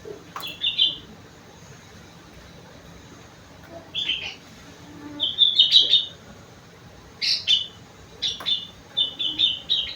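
Sooty-headed bulbul (kutilang) singing in short bursts of quick, chirping notes, several phrases a few seconds apart, with a longer run of rapid notes near the end. It is a trained song bird whose song is filled in with cucak rengganis and cucak wilis phrases.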